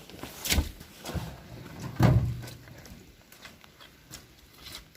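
A few short knocks and thumps, the loudest about two seconds in, then quieter.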